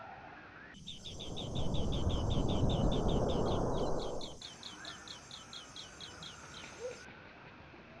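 A bird calling in a rapid series of short, high chirps, about five a second, for some six seconds. For the first few seconds a loud rushing noise lies under it.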